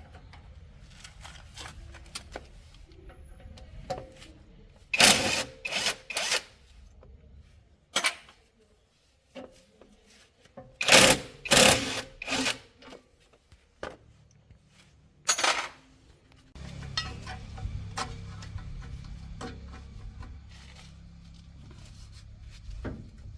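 Clusters of short scraping and rubbing strokes of tools on metal, with quiet gaps between them. A low, steady rumble comes in about two-thirds of the way through.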